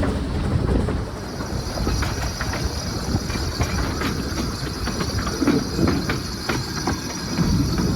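Narrow-gauge steam train running along the line, heard from one of its carriages: a steady low rumble with frequent irregular clicks and knocks from the wheels on the track.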